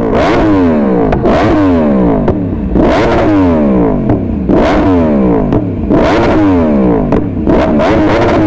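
2017 Yamaha R1's crossplane inline-four through an Akrapovic titanium full-system exhaust, revved in quick throttle blips about six times. Each rev climbs sharply and then falls back, with sharp pops from the exhaust as the revs drop.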